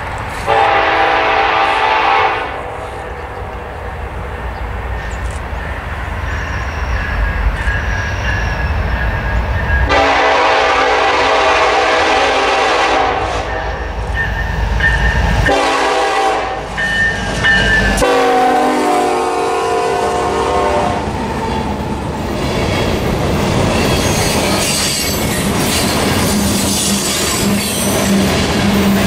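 A freight train's diesel locomotive sounding its air horn three times: a short blast at the start, a long blast about ten seconds in and another a few seconds later, over the low rumble of the engines. The cars then roll past with a steady clatter of wheels on rail.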